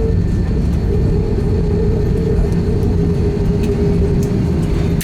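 Steady cabin noise of an Airbus A321-231 with its IAE V2500 engines running: a loud, even rumble with a steady hum just under 500 Hz and a faint high whine.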